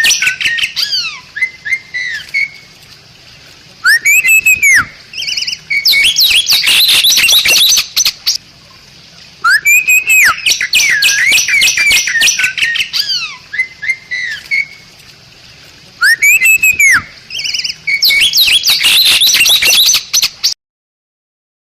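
Bali myna singing: loud arching whistles followed by fast chattering phrases, the pattern repeating about every six seconds. It cuts off suddenly near the end.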